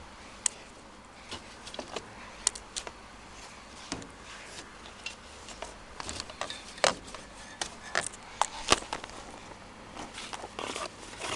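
Irregular sharp clicks and light knocks of objects being handled, scattered at first and coming more thickly, several in a second, during the second half.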